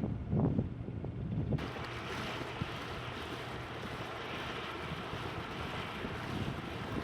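Outdoor waterside wind gusting on the microphone over a low engine hum, then, after an abrupt cut about a second and a half in, a steady rushing noise of wind and water.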